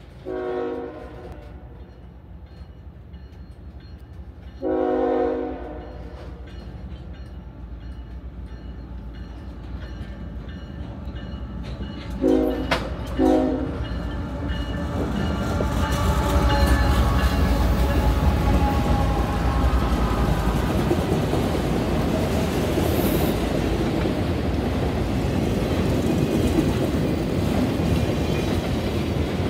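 CSX diesel freight locomotive sounding its horn: a blast about half a second in, a longer one about five seconds in, and two short blasts around twelve seconds. The train then rumbles past close by, its engine and freight cars loud, wheels clicking over the rail joints.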